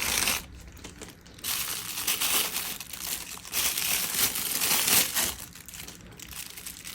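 Protective bag around a pair of eyeglasses crinkling in several bouts as it is handled and the glasses are taken out.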